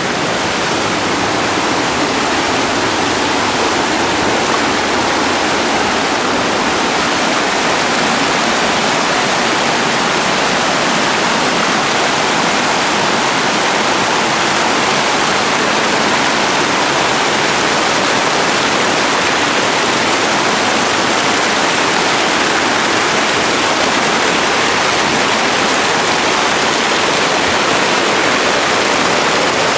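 Waterfall rushing, a loud steady roar of falling water that does not change.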